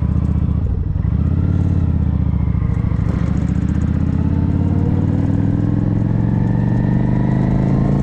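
Motorcycle engine under way, with a brief drop in revs about a second in like a gear change, then pulling with steadily rising pitch as it accelerates.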